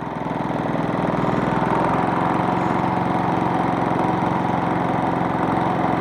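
Generac GP3300i inverter generator's small single-cylinder engine running steadily, getting a little louder about a second in.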